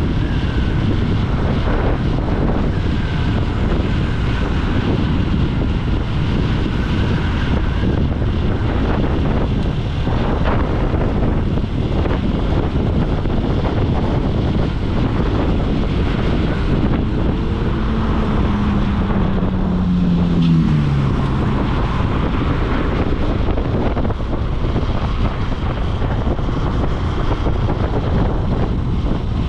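Motorcycle riding at speed: heavy, steady wind rush on the microphone over engine and road noise. About two-thirds of the way through, a strong engine note glides down in pitch.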